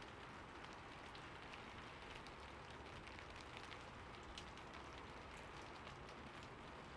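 Steady, fairly quiet rainfall: an even hiss with many scattered individual drop ticks.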